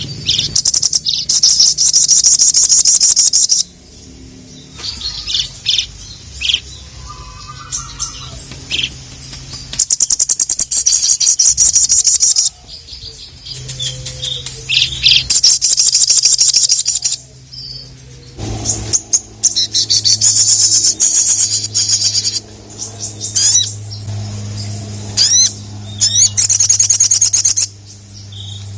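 Little spiderhunter (sogon) singing in full song: loud, rapid, very high-pitched trills of a few seconds each, repeated several times with short chirps between. A low steady hum runs underneath.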